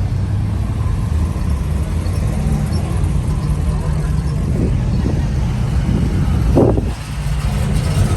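A car engine idling with a steady low rumble, with people talking in the background.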